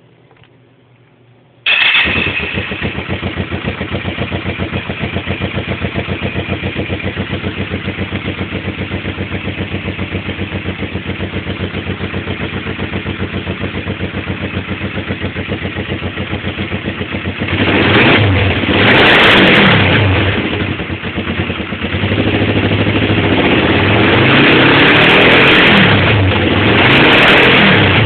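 Kawasaki Vulcan 500's parallel-twin engine starting suddenly near the start and idling with an even, fast beat through mufflers that have been drilled out and debaffled. Past the middle it is revved several times, the pitch rising and falling with each blip.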